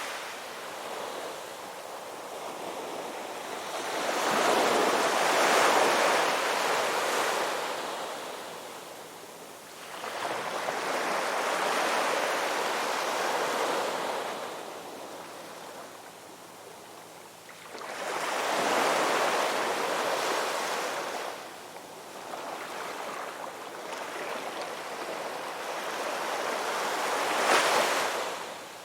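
Ocean waves breaking on a shore and washing back, each surge swelling and fading about every seven seconds, the last break near the end the sharpest.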